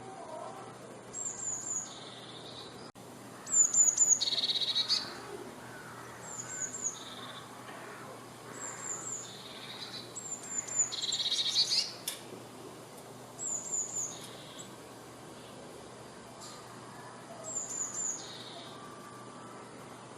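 Eurasian blue tit singing: repeated phrases of three or four quick, thin, high notes, each falling slightly, followed by a lower trill, every two to three seconds. Two of the phrases, a few seconds in and about midway, are louder, with a longer trill.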